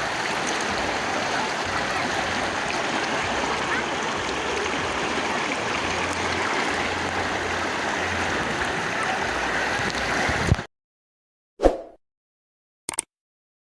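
River water flowing steadily, an even rushing, which cuts off abruptly about ten and a half seconds in, leaving silence broken by a few short blips.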